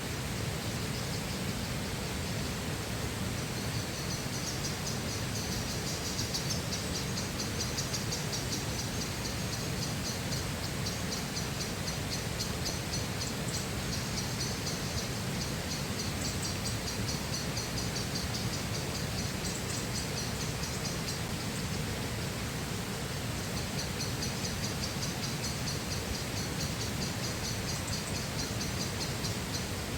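A river flowing steadily, with a rapid, high-pitched trill repeating through most of it and pausing for a few seconds a little past two-thirds of the way.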